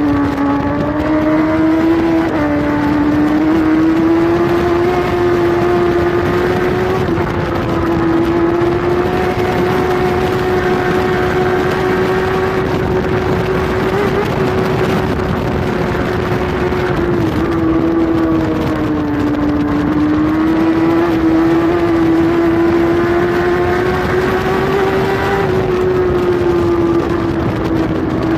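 Kawasaki racing superbike engine at sustained high revs, heard from a camera mounted on the bike, with wind rush over it. The engine note holds a fairly steady pitch, dipping briefly about two seconds in and again past halfway before climbing back.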